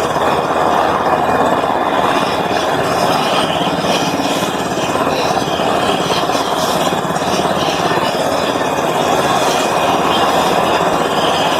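Sikorsky S-70A Black Hawk helicopter running: a steady, loud, even noise from its turbines and rotor, with a faint high whine.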